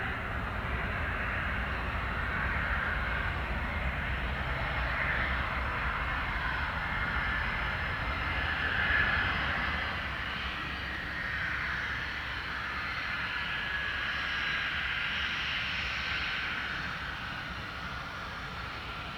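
Twin turbofan engines of a Gulfstream G600 business jet on landing, a steady rushing jet sound with a thin whine above it, loudest about halfway through and easing off toward the end.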